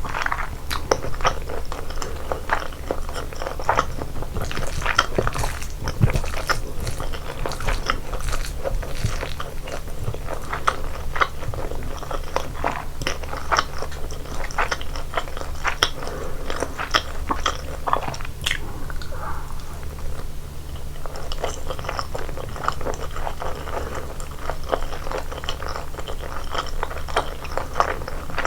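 A person chewing and biting seasoned chicken and rice close to the microphone: dense, irregular wet clicks of chewing, easing off briefly about two-thirds of the way through.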